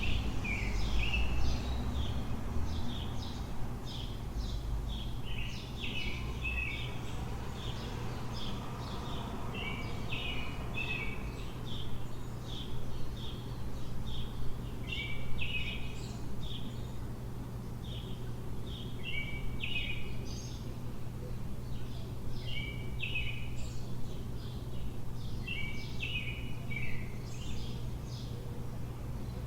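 Songbirds chirping and singing in repeated short phrases every couple of seconds, over a steady low city hum, with a low rumble of traffic in the first few seconds.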